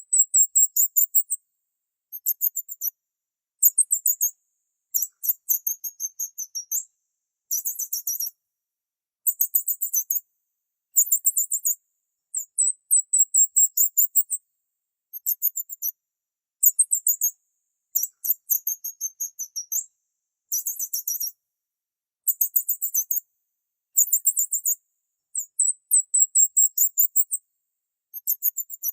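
Small bird chirping in very high-pitched bouts: quick series of rapid chirps, each bout lasting about a second, repeated every second or two.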